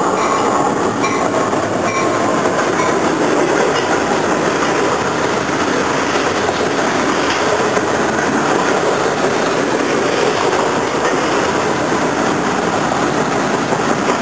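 Freight train covered hopper cars rolling past close by: a steady, loud rush of wheels running on the rails.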